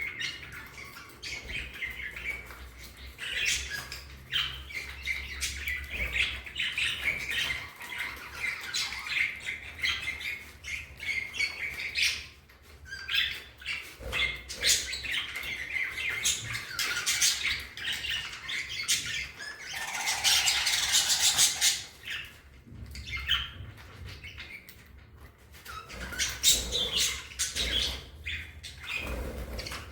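A flock of budgerigars chattering and warbling in a continuous busy stream of chirps, with a louder, harsher burst about two-thirds of the way through.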